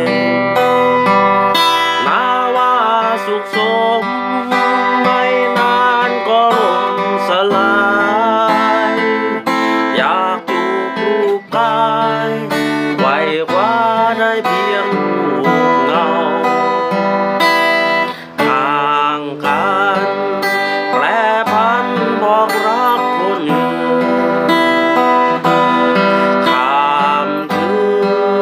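Acoustic guitar strummed under a solo singing voice whose held notes waver with vibrato: a song performed with guitar accompaniment.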